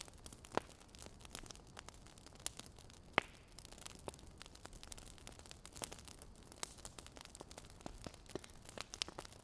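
Fire crackling: irregular sharp pops and snaps over a faint hiss, the loudest snap about three seconds in.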